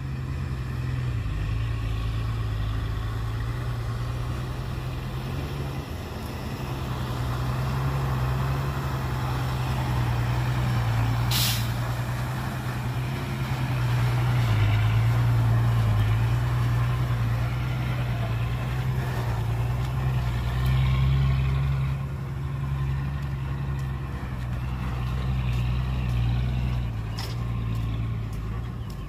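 Heavy diesel engines of dump trucks and a bulldozer running at work, the engine note shifting up and down with load. A brief sharp hiss comes about a third of the way in, and a smaller click near the end.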